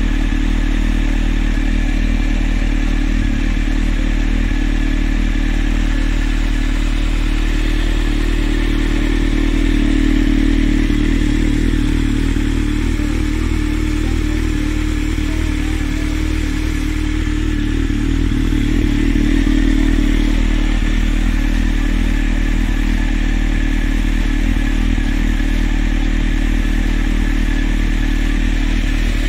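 Honda CB1300 Super Four's inline-four engine idling steadily through an aftermarket Devil carbon silencer, its revs holding without hunting.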